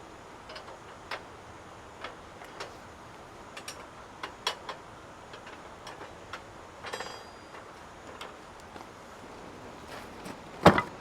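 Scattered light clicks and taps, about a dozen of them at irregular intervals, then one much louder knock near the end, over a steady faint hiss.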